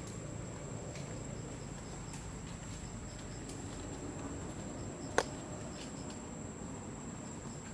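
Outdoor background hiss with a steady high-pitched whine and faint scattered ticks, broken by one sharp click about five seconds in.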